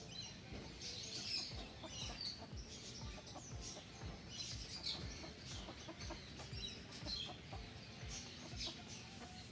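Polish chickens clucking faintly, with short high chirps scattered throughout.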